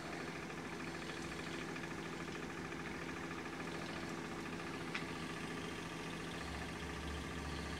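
Mamod SE1 model stationary steam engine running fast and steadily: a continuous hum with a rapid, even beat from the engine. A single sharp click about five seconds in.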